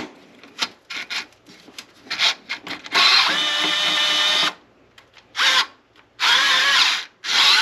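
Cordless drill running in bursts: one steady whine of about one and a half seconds about three seconds in, then three shorter runs, with light clicks and knocks of handling before it.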